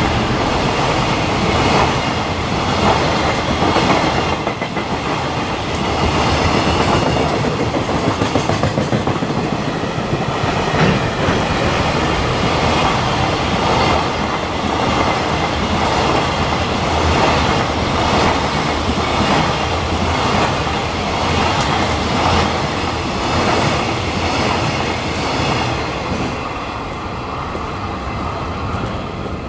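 Container freight train wagons rolling past at speed, their wheels clacking steadily over the rail joints. The sound thins out near the end as the last wagon goes by.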